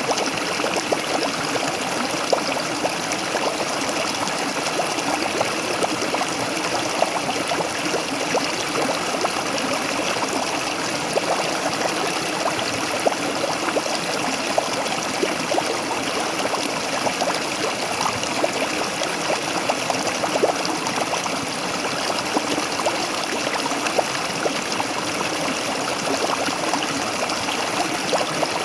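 Waterfall: water falling and splashing steadily, with many small trickles and splashes over a continuous rush.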